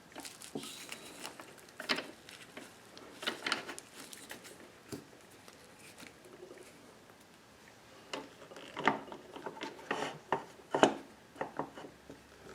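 Irregular clinks, knocks and rubbing of metal lathe tooling being handled and fitted, with the lathe switched off. The clicks come in scattered clusters, busiest about two and three and a half seconds in and again near the end.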